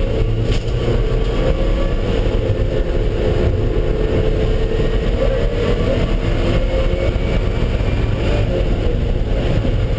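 Car engine running at track speed with tyre and road noise, as heard from the cabin. The engine note holds fairly steady, dipping slightly and rising again.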